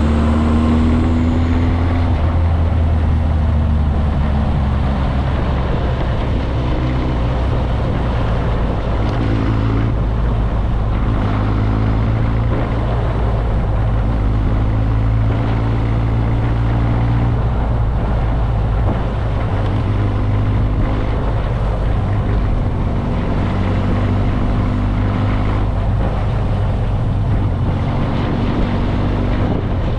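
Motorcycle engine running while riding, its pitch stepping up and down every few seconds, over a steady rush of wind and road noise.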